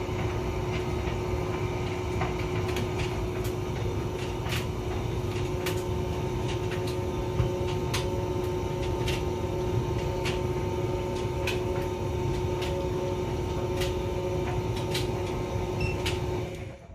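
Hotpoint vented tumble dryer running: a steady motor and fan hum with the drum turning, and irregular clicks and taps as items in the load tumble against the drum. The running cuts off suddenly near the end.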